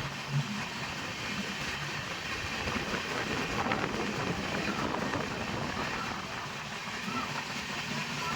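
Steady noise of a train on the move, with indistinct voices in the background.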